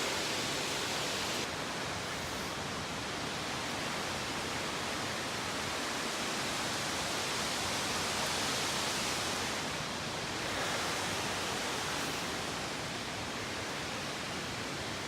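Steady rushing noise of a waterfall, even throughout.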